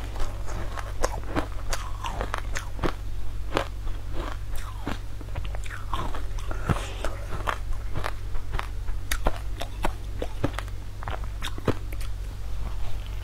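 Close-miked biting and chewing of a crunchy sweet coated in green powder: many sharp, crisp crunches, irregular and close together, over a steady low hum.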